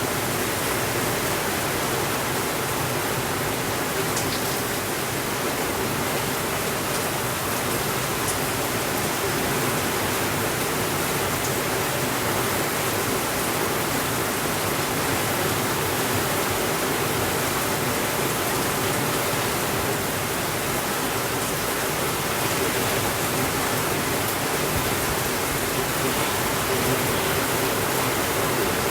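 Heavy rain falling steadily on a window, an even unbroken hiss, with a few faint crackles from a fireplace.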